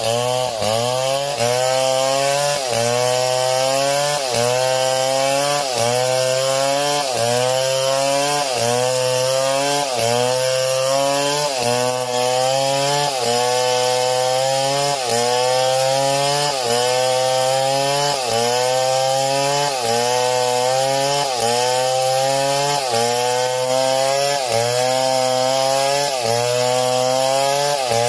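Chainsaw cutting through wood in repeated strokes: the engine's pitch drops under load and rises again about once every second or so, over and over.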